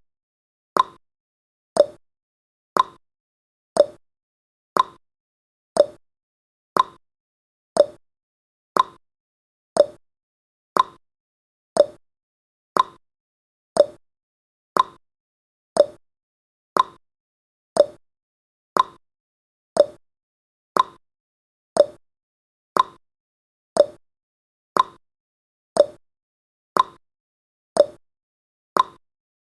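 Clock-style ticking sound effect of a countdown timer: one short, sharp tick each second, evenly spaced.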